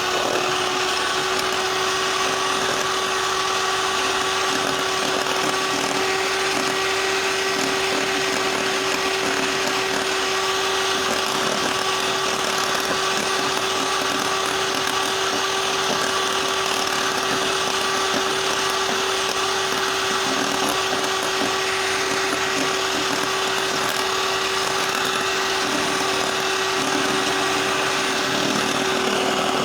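Electric mixer running at high speed, whipping chilled cream toward soft peaks, with a steady motor whine.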